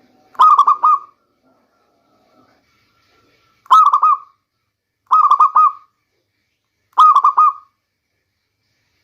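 Local-strain zebra dove (perkutut) cooing: four short phrases, each of three or four quick staccato coos, a couple of seconds apart.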